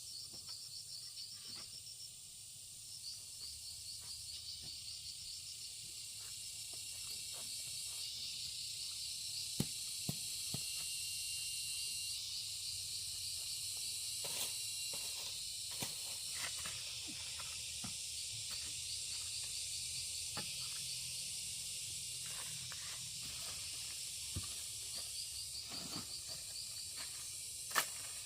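Insects, crickets among them, chirping in quick pulsed trains over a steady high hiss of insect noise, with scattered faint clicks and knocks, the sharpest one near the end.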